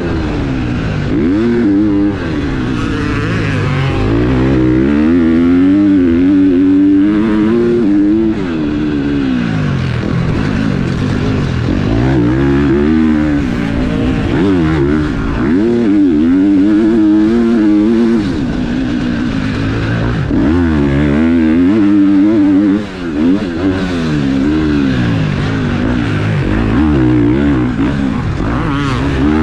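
Four-stroke motocross bike engine being ridden hard, revving up and dropping back over and over as the throttle opens and closes, with a brief cut about three-quarters of the way through.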